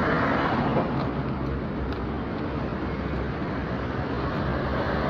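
Street traffic noise: a motor vehicle running nearby over a steady rumble of the road.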